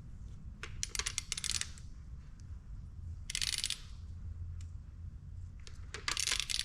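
Hand ratchet wrench clicking in three short runs of rapid clicks as bolts are run down during an engine rebuild, over a low background hum.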